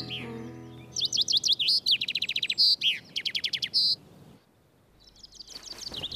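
Cartoon bird singing in bursts of rapid high chirps and trills, with a short pause a little past the middle. Background music fades out in the first second.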